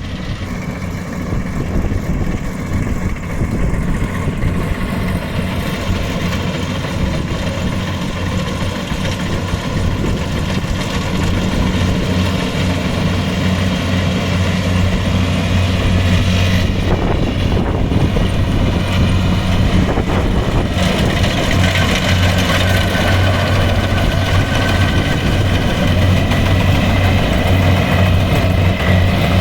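Kubota tractor's diesel engine running steadily under harvesting work, a continuous low hum. About two-thirds of the way in, a higher whine of several steady tones joins it.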